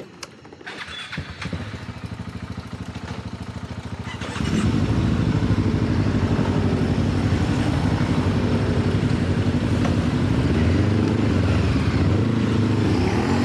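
A quieter engine is running for the first four seconds or so, with a few clicks. Then a motorcycle engine starts suddenly and runs on steadily at idle, loud, its pitch wavering slightly near the end.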